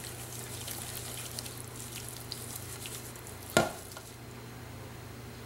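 Diced tomatoes and basil dressed in olive oil being stirred in a stainless steel mixing bowl: faint, soft stirring with scattered light ticks over a steady low hum. A single sharp knock comes about three and a half seconds in.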